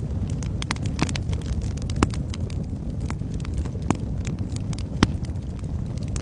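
Wood fire crackling in a fireplace: a steady run of small snaps and pops over a low rumble of the flames, with sharper pops about two, four and five seconds in.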